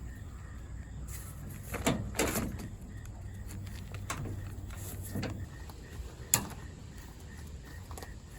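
Tent pole being pushed slowly through the fabric sleeve of a truck tent, with nylon rustling and scraping in several short bursts. One sharp click a little after six seconds is the loudest sound.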